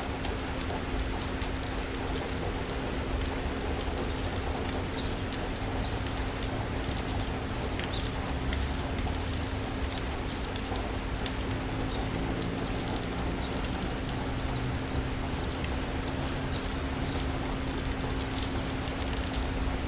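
Steady city rain, a constant hiss with scattered drop ticks, over a steady low hum and a low rumble.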